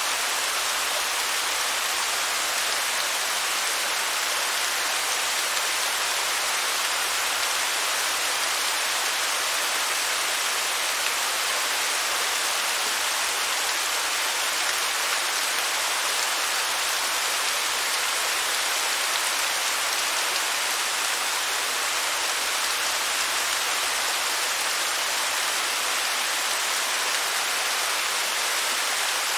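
Waterfall: steady, even rush of falling water with a hissy, rain-like splash and little low rumble.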